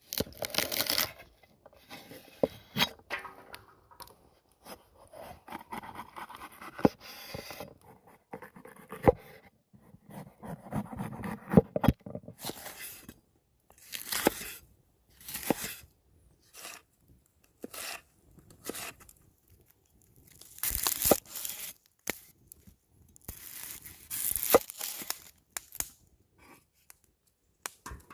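Hands handling and preparing food for cooking: a run of short, separate noisy handling sounds, each lasting up to about two seconds, with gaps between them.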